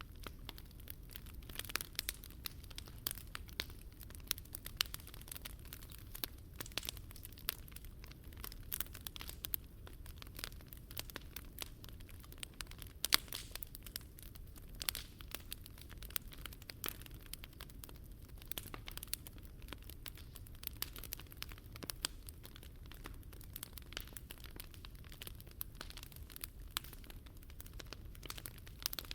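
Wood fire crackling, with irregular sharp pops and snaps, one louder pop about 13 seconds in, over a steady low rumble.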